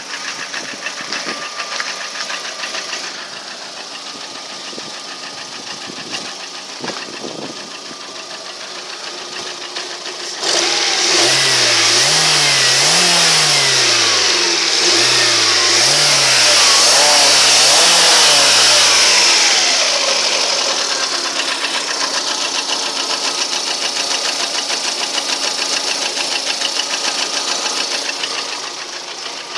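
Lada Priora engine running with a steady, rhythmic knock whose cause the owner cannot pin down. About a third of the way in it is revved up and down several times, then drops back to idle with the knock still there.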